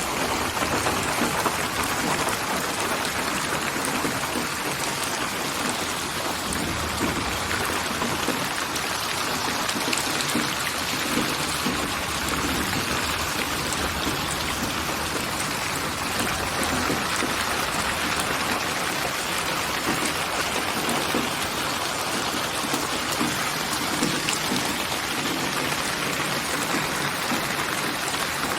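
Steady rain: a dense, even patter of drops falling on a surface, used as a white-noise sleep sound.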